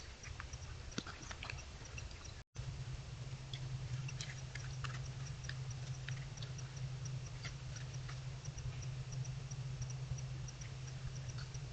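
Short high chirps from an unseen night creature, repeating evenly about three times a second, with scattered irregular clicks and a low steady hum beneath; the sound cuts out for an instant about two and a half seconds in.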